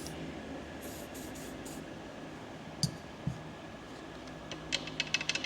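Small metal clicks and taps of transmission parts being handled: one sharp click and a dull knock about three seconds in, then a quick run of light clicks near the end, over a steady low hum.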